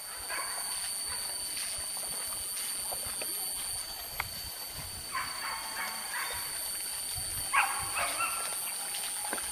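Hunting dogs yelping: a short run of yelps about five seconds in and another cry about seven and a half seconds in, over a steady high-pitched hum.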